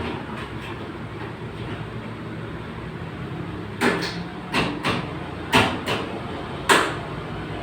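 Sharp knocks on car body metal during dent repair, about seven strikes in uneven pairs starting about four seconds in, over a steady background noise.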